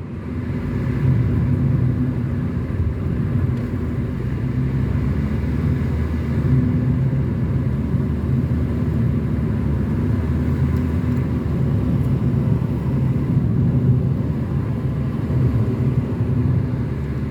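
A car driving steadily, its engine and tyres making a constant low hum and road rumble.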